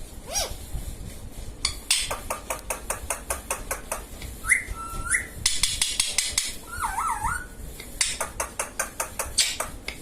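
Indian ringneck parrot giving two short wavering whistles, one in the middle and one a little later, between runs of rapid clicking.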